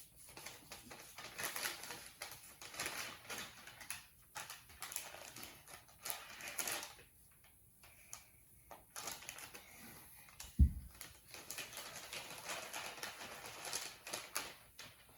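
Rustling, taps and clicks of objects being handled and set out. A single loud, dull thump comes about ten and a half seconds in.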